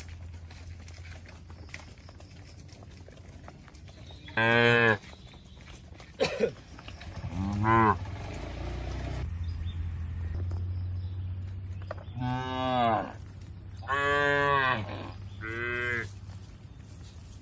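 Cattle mooing: about five separate calls, one rising in pitch, over a steady low hum, with a short sharp double click between the first calls.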